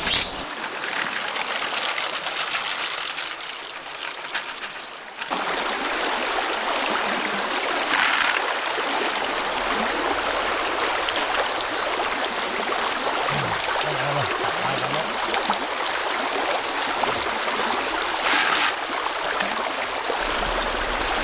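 Mountain stream water running and trickling over rocks, a steady rush that turns louder and fuller about five seconds in.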